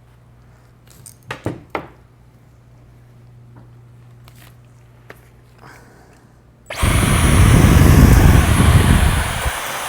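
A few light handling clicks, then about seven seconds in a motor-driven air tool switches on with a sudden loud rush of air and a high whine, clearing loose powder-coat flakes out of the light fixture's housing.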